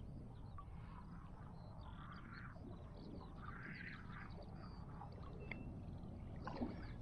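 Faint birds chirping now and then over a steady low rumble of wind or moving water, with a couple of small knocks near the end.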